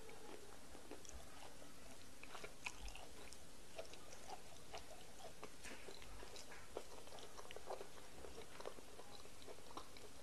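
Close-miked wet chewing and lip-smacking of fufu with egusi soup eaten by hand: a steady run of small, irregular mouth clicks and squelches.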